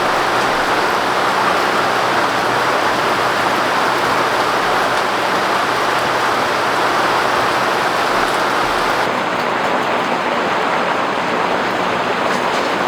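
Heavy rain falling steadily, a dense even hiss; about nine seconds in the hiss turns duller as its highest part drops away.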